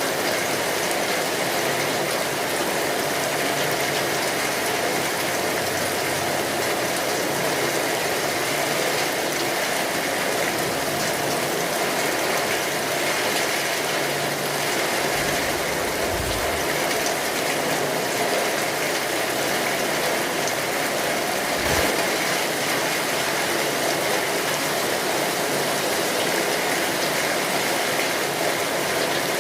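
Steady rain falling, an even wash of patter with no let-up. Two brief low thumps come through, one about halfway through and a shorter one a few seconds later.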